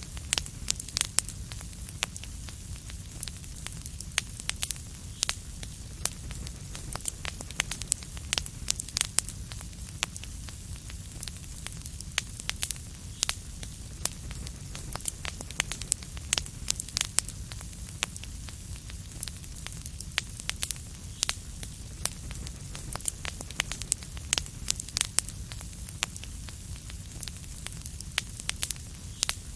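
Fireplace wood fire crackling: irregular sharp pops and snaps, several a second, over a steady low rumble.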